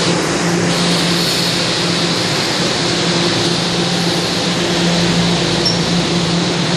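Steady noise inside a Toronto subway car: a hiss with a low hum that comes and goes.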